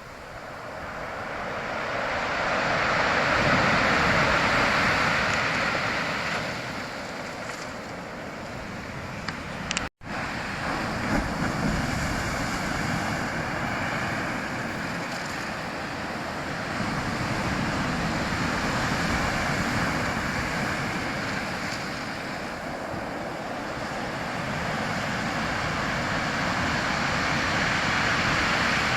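Sea waves surging and washing back: a continuous rushing that swells and eases over several seconds, broken by a brief dropout about ten seconds in.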